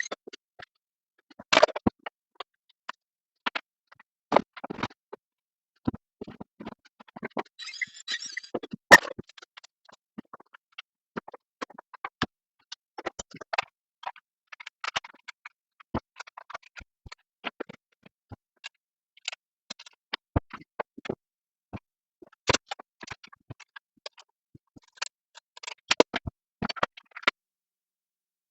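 Irregular knocks, taps and clicks of plywood lathe-stand parts and bolt hardware being handled during assembly, with a short rasping scrape about eight seconds in.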